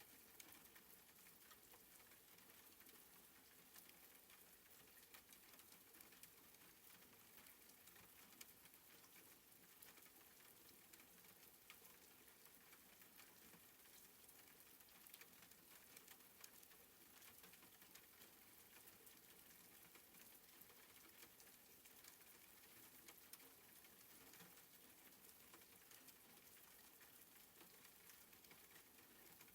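Faint, soft rain falling steadily, with scattered light ticks of individual drops.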